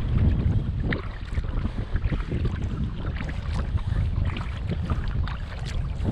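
Kayak being paddled: scattered small water splashes and drips under a low, unsteady rumble of wind on the microphone.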